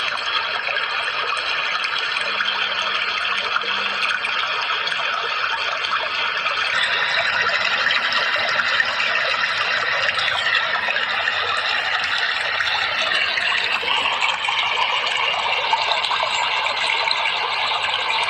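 Steady rushing water, a continuous dense hiss whose character shifts about a third of the way in and again past the middle.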